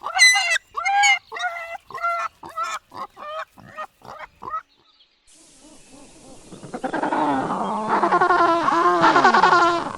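Repeated short animal calls, about two a second, stopping a little before halfway. After a brief gap, a dense chorus of many animals calling over one another swells in and grows loud.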